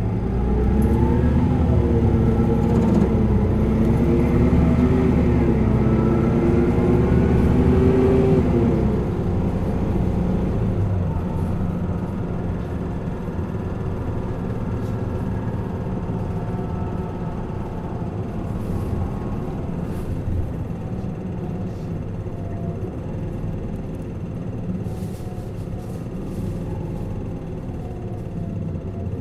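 Interior engine sound of a new-model Isuzu Erga LV290N1 city bus with a four-cylinder diesel. It pulls hard under load for about the first nine seconds, its pitch wavering, then eases off to quieter steady running.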